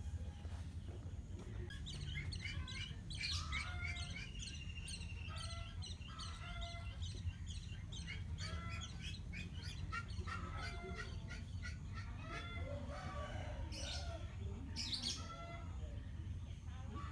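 Birds chirping repeatedly over a steady low background rumble, with two brief sharp noises near the end.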